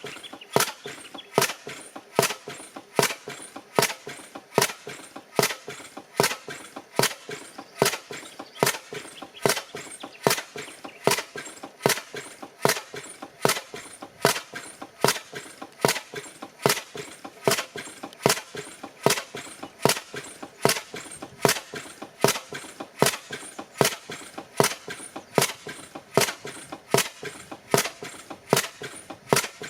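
Bessemer 12 hp gas-engine cylinder conversion running on an Innis steam-engine frame, c.1900. It fires in a steady, slow rhythm of sharp cracks about every three-quarters of a second, with lighter clicks between them.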